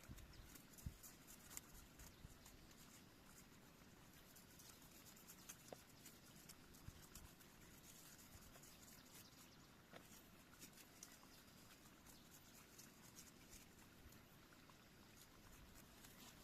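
Faint, steady running water of a forest stream, with a few soft clicks and taps now and then.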